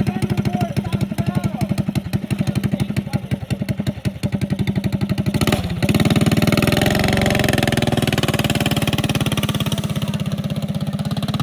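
Small single-cylinder minibike engine running in a rapid, even pulse. About five and a half seconds in it revs up hard and stays at high revs, gradually getting fainter.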